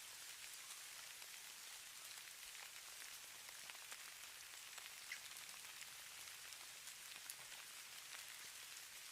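Falling snow ambience: a faint, steady high hiss made of a fine patter of tiny ticks, like light precipitation landing on a surface.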